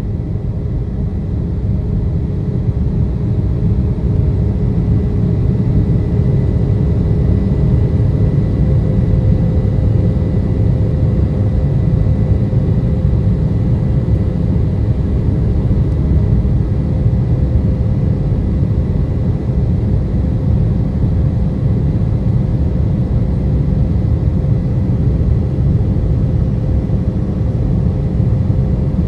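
Steady low rumble of a jet airliner's engines and airflow in flight after takeoff, with a faint steady hum above it. It grows slightly louder over the first few seconds, then holds even.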